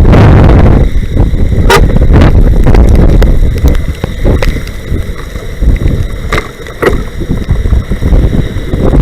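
Strong wind buffeting the microphone: a loud, low rumbling roar that surges and eases, with a few sharp clicks.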